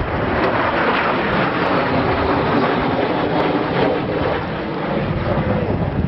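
Jet aircraft flying over, a loud, steady rush of engine noise.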